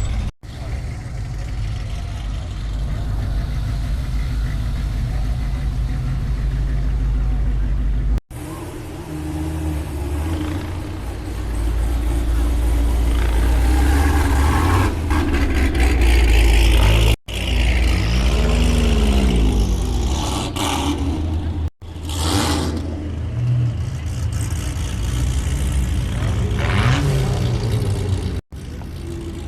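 Car engines running with a deep, steady rumble, one engine briefly revving up and back down in the middle; the sound drops out for an instant several times.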